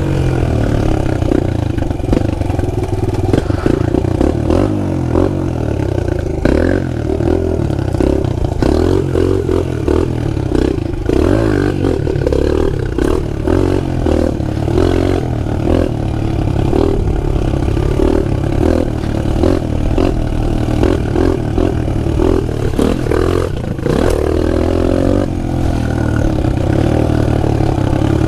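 Pit bike engine running and revving up and down repeatedly as the bike is ridden, with occasional clattering knocks.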